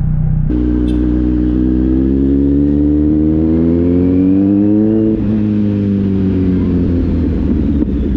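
Kawasaki Z900's inline-four engine pulling away in a low gear. Its pitch climbs steadily for about four seconds, drops suddenly about five seconds in, then settles lower.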